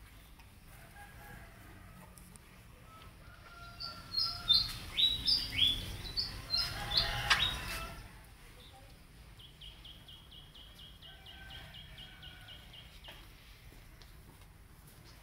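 Birds chirping close by: a burst of loud, sharp chirps that drop in pitch, from about four seconds in for about four seconds, then a fast, even trill of short high notes a little later.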